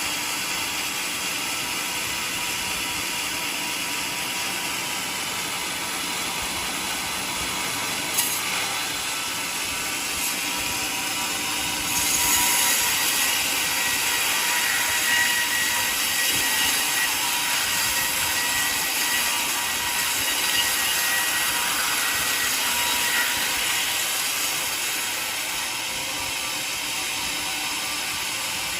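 Portable sawmill running steadily, getting louder from about twelve seconds in with a steady high tone, then easing back near twenty-four seconds. A single sharp click sounds about eight seconds in.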